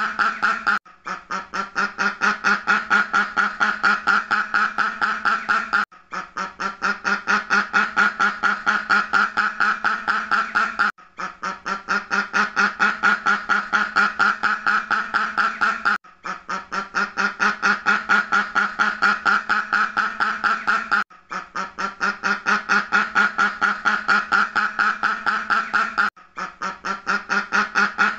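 Ducks quacking in a fast, unbroken run of quacks, a short recording looped about every five seconds, with a brief break and a fade back in at each repeat.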